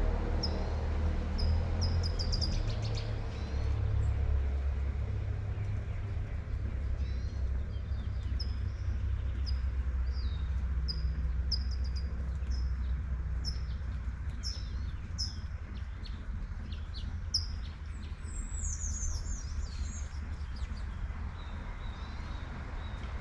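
Small songbirds chirping over and over in short, high, down-slurred notes, a few a second, with a busier, higher phrase of song about three-quarters of the way through. Beneath them run a steady low rumble of distant traffic and the soft hiss of light rain.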